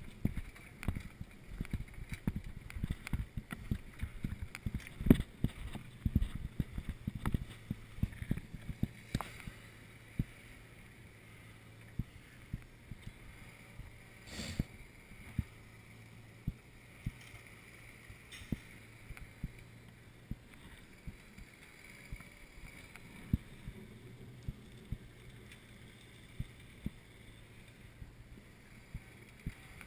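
Mountain bike rolling over a rough trail, its frame and parts rattling with frequent sharp knocks. The knocks come thick and fast for the first nine seconds, then thin out to occasional ones over a low steady rumble.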